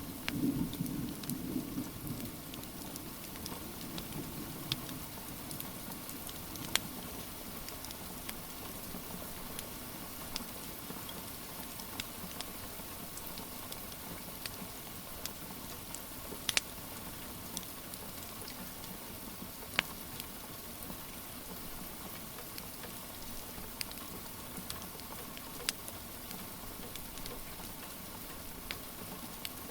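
Steady rain falling, with sharp crackles and pops from a wood fire every few seconds. A low rumble fades out over the first few seconds.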